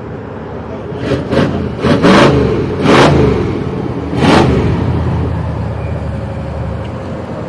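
1982 Jeep CJ7 engine idling, blipped on the throttle five or six times in quick succession, then settling back to a steady idle.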